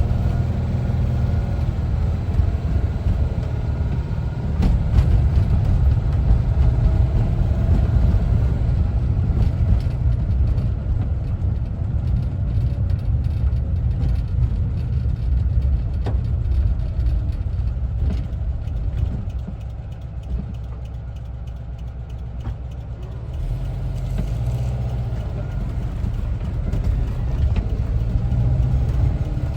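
A 1974 Volkswagen Westfalia camper's air-cooled engine running on the road with a steady low rumble. It eases off about twenty seconds in, then picks up again a few seconds later.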